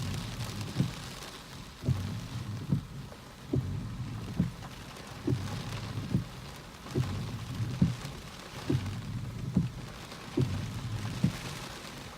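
Storm wind and rain hissing steadily, with a regular low thump a little more than once a second.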